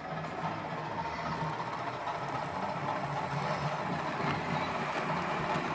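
OO gauge model train running along the track, a steady hum of the motor and wheels on the rails.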